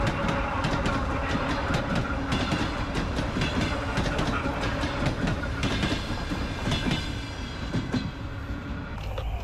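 Electric suburban train passing close by, its wheels clacking over the rail joints in a quick run of clicks over steady rolling noise. The sound eases near the end as the last car goes by.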